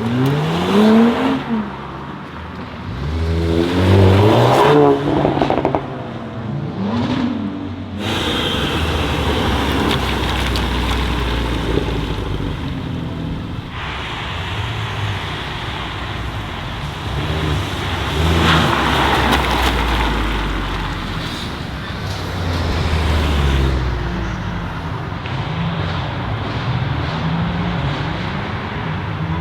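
Modified sports car engines revving and accelerating hard in several short clips: quick rising and falling revs in the first few seconds, loudest around one and four seconds in, then after a cut a lower, steadier engine note with further rises in revs.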